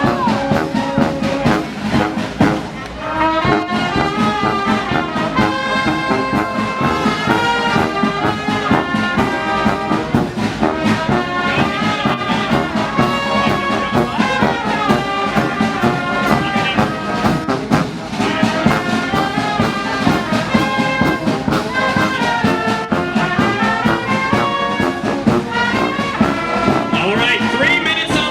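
Brass-band music, with trumpet and trombone playing a melody of held notes.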